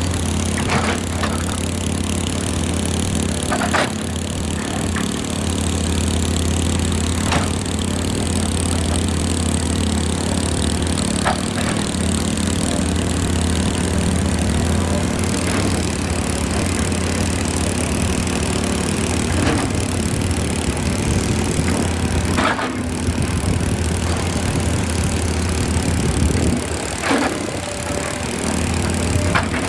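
Excavator's diesel engine running steadily, with occasional short knocks every few seconds.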